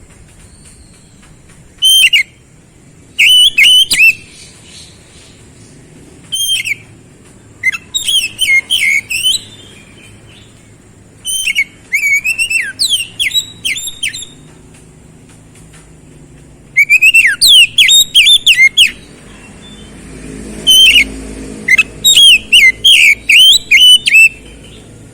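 Oriental magpie-robin (kacer) singing loud, rapid bursts of sweeping whistled notes, phrase after phrase with short pauses between.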